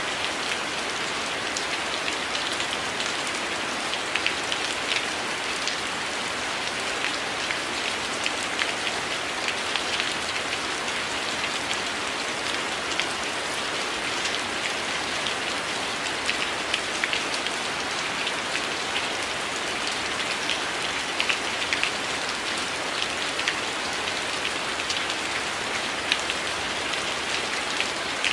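Steady rain falling on a window: an even hiss with many small, sharp drop taps scattered through it.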